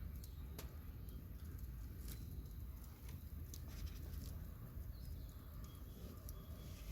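Campfire crackling: scattered small sharp pops and clicks over a low steady rumble.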